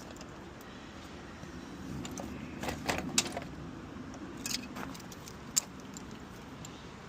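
Keys jangling in a hand: a few short metallic jingles and clicks, bunched about three seconds in and again near the middle, over a steady low background hum.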